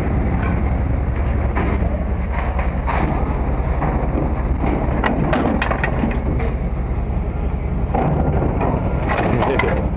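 Irregular knocks, clatter and crunching over a steady low engine rumble, typical of scrap being handled and unloaded at a scrap yard.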